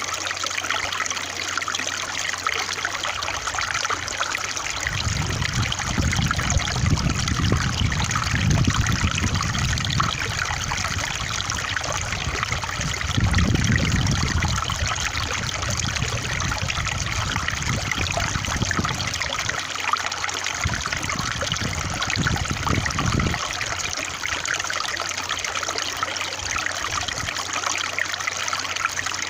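Water trickling and splashing steadily, as of a small stream. A low rumble swells and fades several times: about five seconds in, near the middle, and again about two-thirds of the way through.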